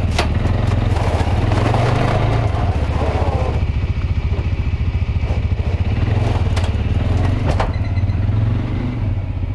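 A vehicle engine running steadily with a low, even rumble. A few sharp clacks sound over it, one at the very start and two about two-thirds of the way through.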